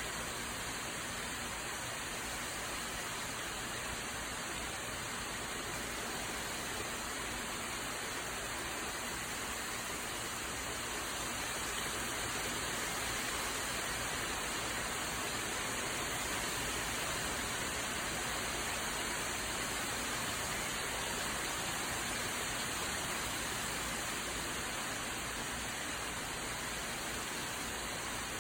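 Steady rain shower falling on a backyard, an even hiss of rain with no distinct drops standing out, growing slightly louder midway.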